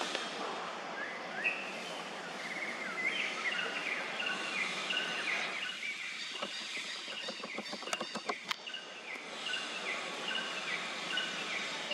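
Forest ambience: small birds calling in short, falling chirps, repeated over and over above a steady background hiss. A run of light clicks and taps comes about six to eight seconds in.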